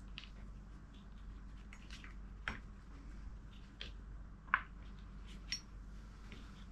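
Light clicks and taps of small engine parts being handled, with three slightly sharper knocks about two and a half, four and a half and five and a half seconds in, over a faint steady hum.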